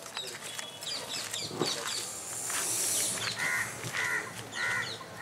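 Birds calling: quick high chirps, then from about three seconds in a run of evenly repeated calls about twice a second.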